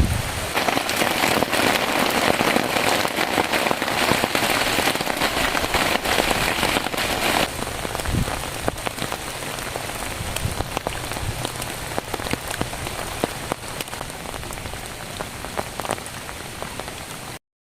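Heavy rain falling, with many individual drops pattering and ticking on a surface. It is heavier for the first several seconds, eases slightly after about seven seconds, and cuts off abruptly near the end.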